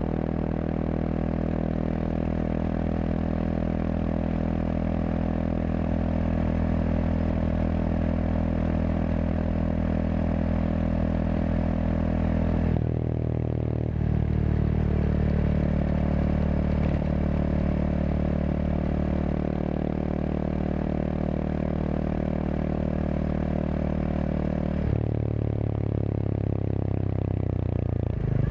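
Kawasaki KLX230SM's single-cylinder engine running through a K-Factory FRC slip-on silencer while the bike is ridden at a steady pace. The exhaust note changes pitch about a third of the way in and again near the end, as the revs change.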